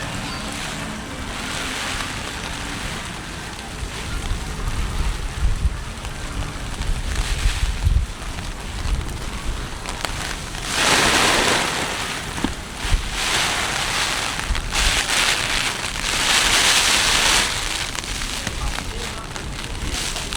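Heavy typhoon rain with gusting wind. A low wind rumble on the microphone runs through the middle, and two loud swells of rushing hiss come about eleven and sixteen seconds in.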